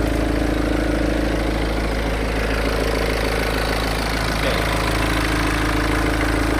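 BMW X4 20d's 2.0-litre four-cylinder turbodiesel idling with a steady, regular sound, the sign of an engine running smoothly.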